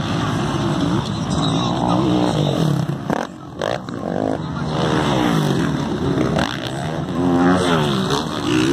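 Several motocross motorcycle engines revving up and down in turn as they race, their pitch rising and falling.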